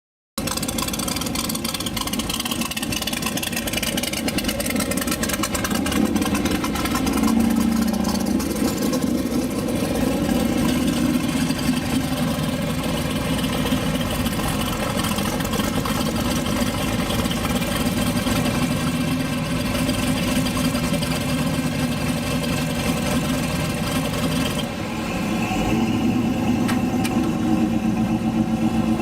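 Rat rod hot rod's engine running steadily at idle through its exhaust, with a short dip in level and a change in tone about twenty-five seconds in.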